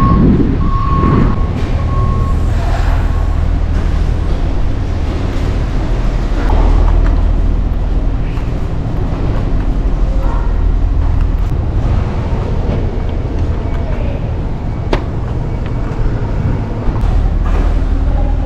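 Steady low rumble of wind and traffic noise. A high, steady beep comes in short broken pieces during the first few seconds, and faint voices are heard now and then.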